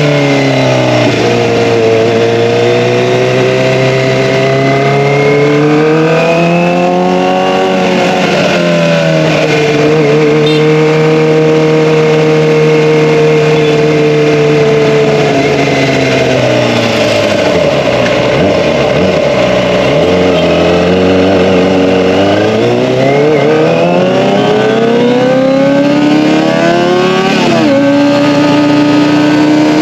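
Kawasaki ZX-25R's 249 cc inline-four engine through an Akrapovic Evolution exhaust, its pitch rising and falling with throttle and gear changes. It sinks low about two-thirds of the way through, then climbs again. Near the end the pitch drops sharply, as in a gear change.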